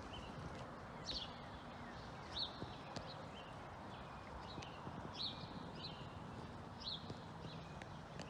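Birds chirping outdoors, short calls about once a second, over a faint steady hum and background noise.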